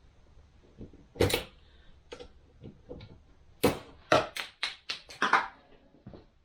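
Hand tools and parts clicking and knocking against a transmission clutch drum while it is worked apart: one sharp knock about a second in, then a quick run of about seven clicks and knocks past the middle.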